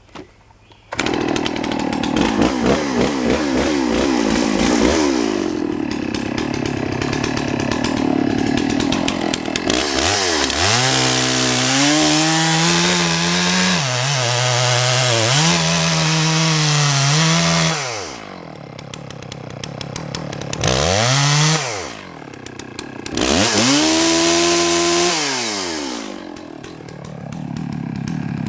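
Chainsaw coming in suddenly about a second in and cutting into a downed oak log under load. The engine then revs up and down, dropping back to idle twice between high-revving stretches, and rises again near the end.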